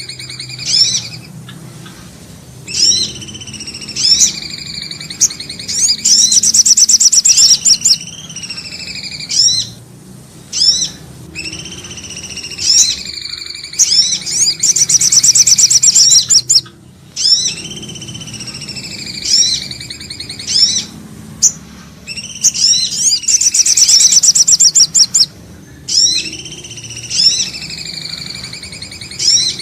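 Bird-lure recording of cipoh (common iora) and sogok ontong calls played in a loop. Rapid high trills of a second or two alternate with short sliding whistles, and the sequence repeats about every ten seconds.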